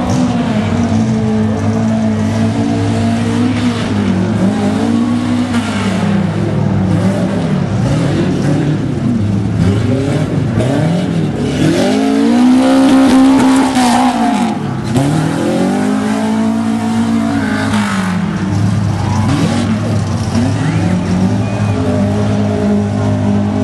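Tuff Truck off-road truck engine revving up and falling back again and again, with the longest, loudest rev about halfway through.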